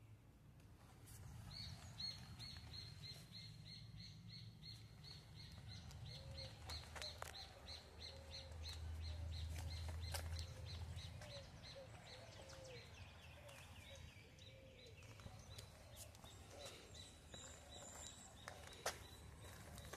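Birds calling: one repeats a short high chirp about three times a second for roughly ten seconds, then a lower series of notes follows. Softer, lower rounded calls come in alongside in the middle.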